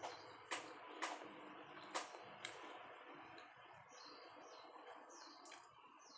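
Faint close chewing of a crunchy mini pizza on bread: four sharp crunches in the first two and a half seconds, then softer chewing.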